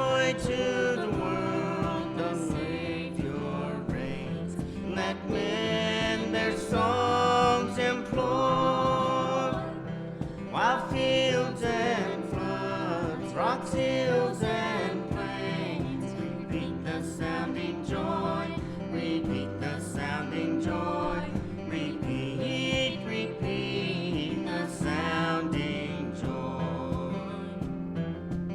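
A song sung with an acoustic guitar accompaniment, the voice holding long notes with vibrato over steady strumming.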